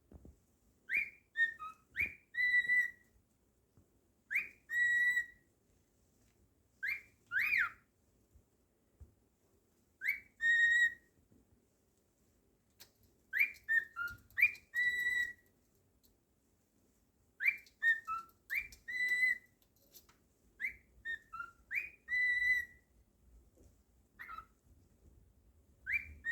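Cockatiel whistling a short tune over and over: a few quick sliding notes ending on a held note, repeated every three to four seconds with short pauses between.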